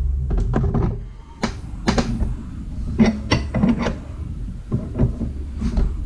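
Irregular metal clicks and knocks from hand tools working an Astro 7897 ball joint press, pressing a ball joint into a truck's upper control arm, over a steady low hum.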